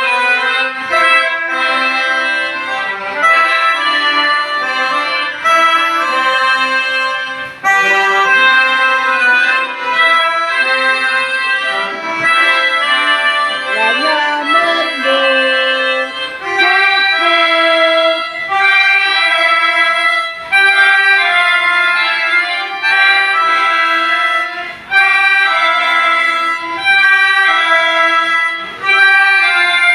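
Music played on free-reed instruments: a melody over held chords, with short breaks between phrases.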